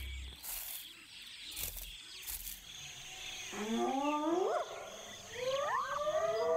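Music dies away at the start. After a faint pause, several wild animals call from about three and a half seconds in, with overlapping calls that rise in pitch and level off, one after another.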